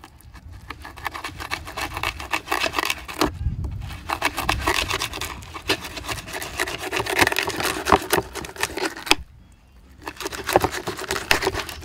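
A filleting knife sawing back and forth under the skin of a thornback ray wing to cut it free, a rapid, irregular rasping scrape. The strokes stop briefly about nine seconds in, then resume.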